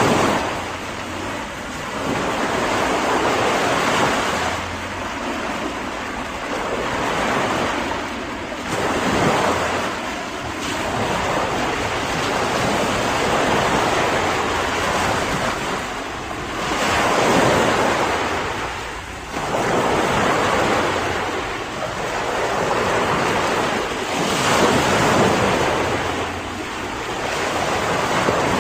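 Ocean waves breaking and washing in, one swell after another every few seconds, with wind.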